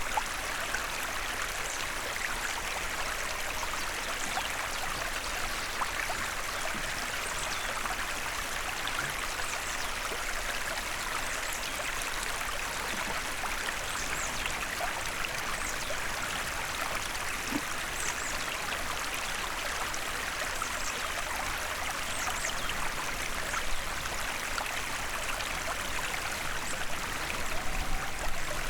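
Small forest stream flowing: a steady rush and trickle of running water, a little louder for a moment near the end.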